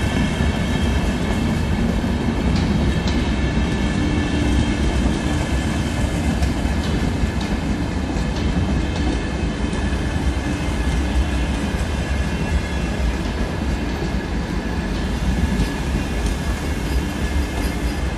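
Train running along the track at a steady pace: a continuous low rumble with a steady whine above it and a few light clicks from the rails.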